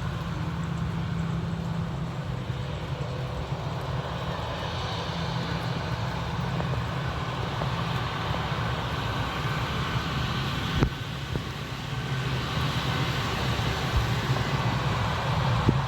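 Airbus A320 jet engines running with a steady rushing roar over a low rumble, swelling slightly toward the end. There is one short knock about eleven seconds in.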